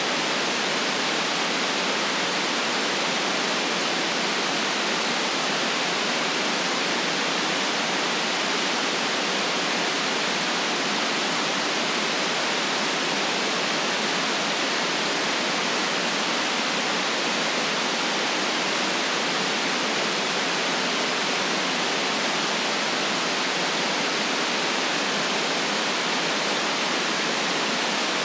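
Steady, unchanging white noise: an even hiss with no low rumble, for relaxation and sleep.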